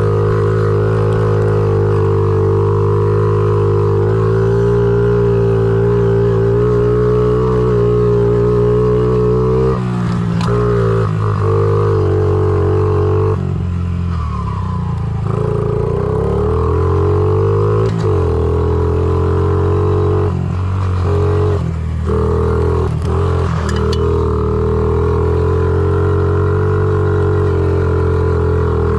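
Honda CRF50 pit bike's small single-cylinder four-stroke engine running under load as it is ridden, a steady drone that several times drops and slides down in pitch as the throttle is rolled off, then climbs again, mostly in the middle stretch.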